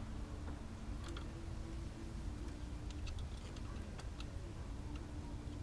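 Scattered light clicks over a steady low hum.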